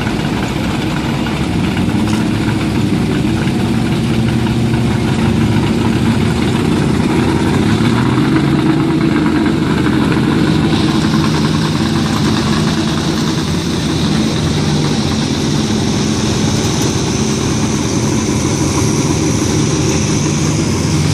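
Pulling pickup's engine running loudly and without a break, its pitch wavering up and down, with a hiss that grows from about halfway through.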